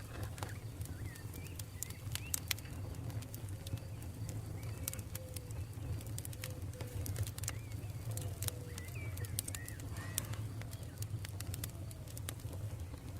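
Campfire crackling, with scattered sharp pops over a steady low rumble. Birds call in the background: a run of short, low repeated notes through the middle, and higher chirps near the start and again about two-thirds of the way in.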